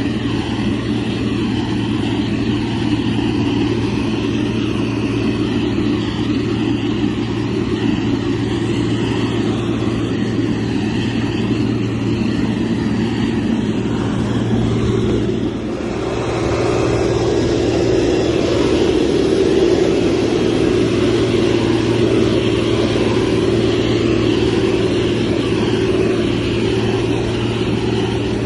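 Motor grader's diesel engine running steadily under work. The sound dips briefly about halfway through, then comes back a little louder and stays that way.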